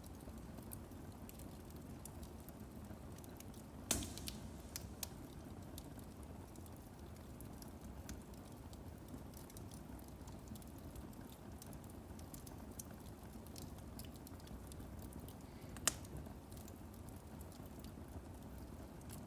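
Firewood burning in a fireplace: a steady low rush of flame with scattered small crackles, and two sharp pops of the wood about 4 seconds and 16 seconds in.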